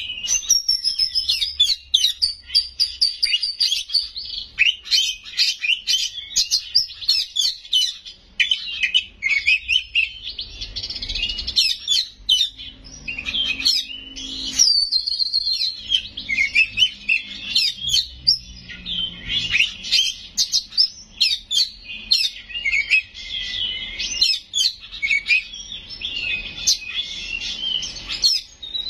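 Oriental magpie-robin (kacer) singing continuously: a fast, varied stream of whistles, trills and chattering notes, with phrases mimicked from other birds woven in.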